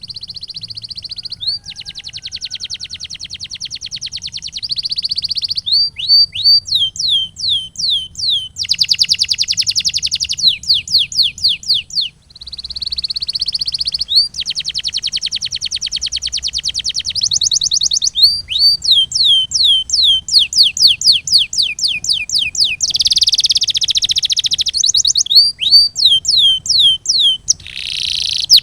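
Domestic canary singing: long, very fast rolling trills alternate with runs of repeated sharply falling whistled notes, phrase after phrase with short breaks.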